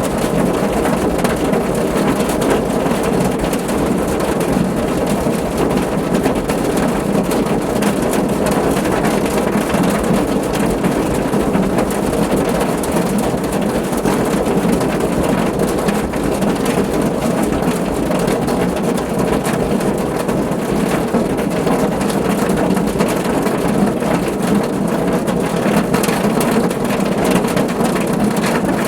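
Steady, heavy rain pattering on a car's roof: a dense, even patter of many drops with a low rumble under it, unchanging throughout.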